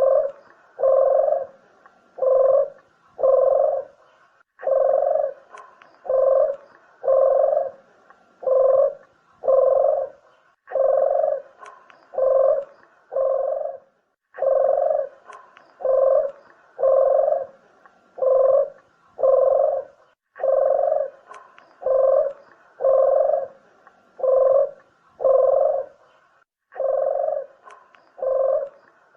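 Puter (Barbary or ringneck) dove cooing over and over: low, evenly spaced coos in runs of about five, each run followed by a short pause. This is a call recording used as a lure to draw wild doves in.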